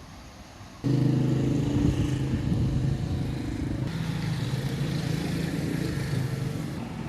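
A vehicle engine running steadily at a constant low pitch, cutting in abruptly about a second in and easing off near the end.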